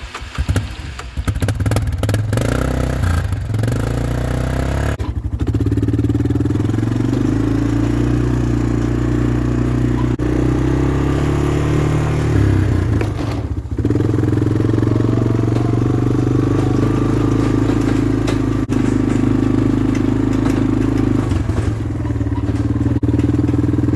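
Honda Fourtrax ATV engine running steadily while riding. The engine note dips briefly twice, about five seconds in and again around thirteen seconds, then settles back to a steady run.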